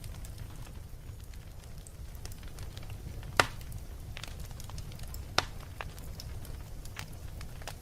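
Wood fire burning in a fireplace: a steady low rumble of flames with scattered small crackles and two sharp, louder pops, the first about midway and the second a couple of seconds later.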